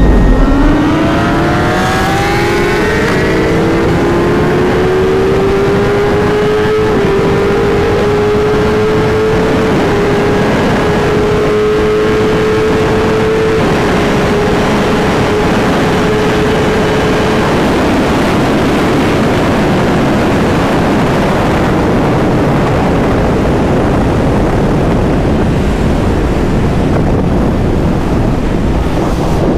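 Inline-four 1000 cc sportbike engine under hard acceleration. Its pitch climbs through a few upshifts over the first several seconds, then holds steady at high speed. From about halfway through, the engine tone sinks under loud wind rush on the helmet camera.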